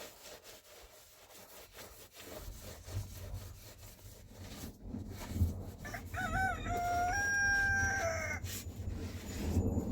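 A rooster crows once, about six seconds in, in one call that rises and then holds for about two seconds. Under it runs a steady series of scraping strokes with a low rumble.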